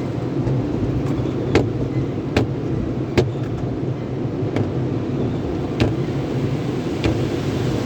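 Sonny's car wash tunnel running: a steady rumble of machinery and spraying water, with about six sharp knocks spread unevenly through it.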